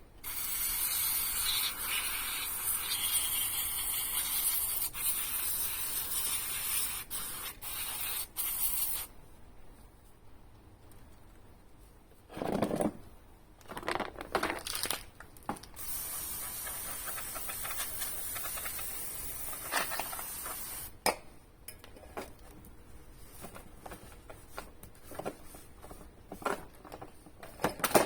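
Aerosol spray can spraying in two long hissing bursts, the first about eight seconds and the second about five, with short knocks and rustling of handling in between.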